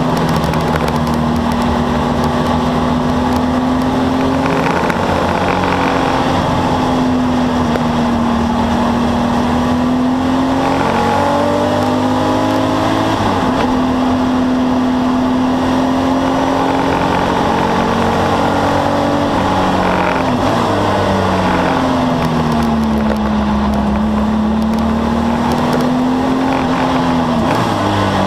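Porsche 964 911's air-cooled flat-six race engine heard from inside the cabin, running hard. Its pitch holds steady for long stretches and then dips and climbs again several times as the car lifts, shifts and accelerates through corners, with a sharp drop at a gear change about halfway through and another near the end.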